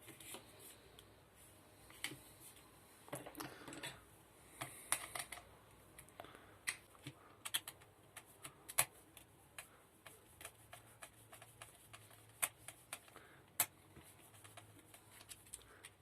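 Irregular sharp clicks, taps and short rustles of small parts and tools being handled while a blender is taken apart.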